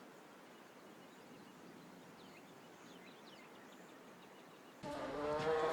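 Faint outdoor background noise with a few faint, short, high bird chirps. Near the end, a cow starts mooing, much louder.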